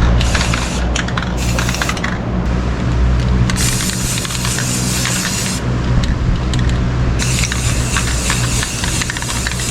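A motor-driven tool running steadily with a low hum, a hissing that drops away and returns a few times, and many small clicks.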